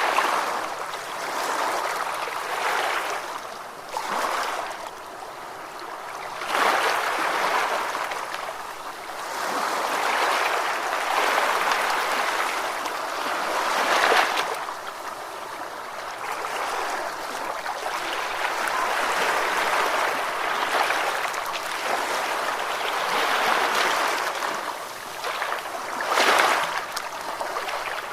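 Ocean waves washing onto a shore: a rushing hiss that swells and falls every few seconds, with stronger surges about a quarter, half and near the end of the way through.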